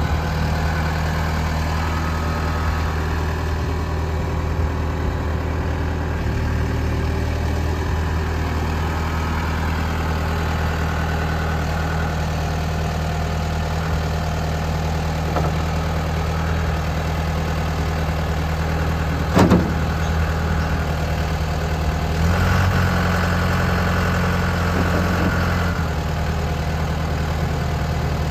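John Deere 6415 tractor's diesel engine idling steadily. There is a single sharp knock about two-thirds of the way through, and then a few seconds where the engine note rises, with a whine on top, before it settles back.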